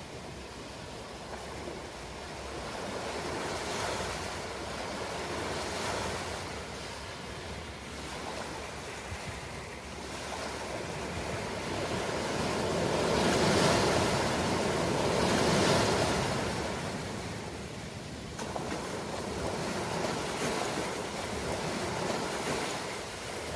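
Ocean surf: waves rolling in and washing back in slow surges that swell and ease every few seconds, the loudest wave a little past halfway through.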